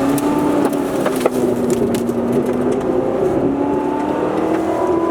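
Supercharged V8 of a C7 Corvette Z06 running at steady mid revs under driving load; its pitch sags slightly and then climbs again. Scattered sharp clicks are heard over it.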